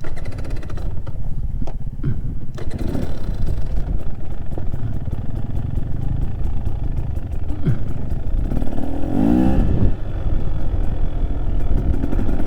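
Trail motorcycle engine running at low revs, with a few knocks in the first couple of seconds and the revs rising and falling about nine seconds in.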